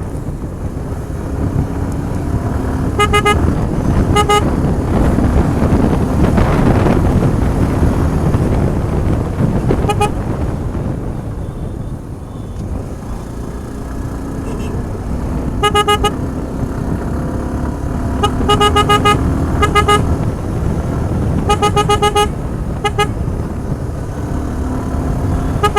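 Motorcycle riding along a road, its engine and road noise steady, with a louder rush about six seconds in. A vehicle horn sounds in several bursts of rapid short beeps, most of them in the second half.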